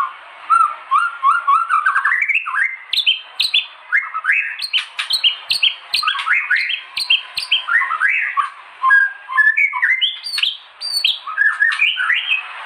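White-rumped shama (murai batu) singing a rapid, unbroken run of varied whistled notes and quick upward slurs, several notes a second.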